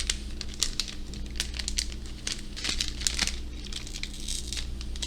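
Packaging of a Japanese chocolate candy crinkling and crackling as it is handled, in many short, irregular crackles.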